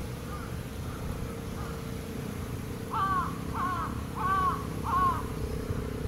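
A bird calling four times in quick succession, each call a short arched note about two-thirds of a second apart, beginning about halfway through. Fainter calls of the same kind come before it.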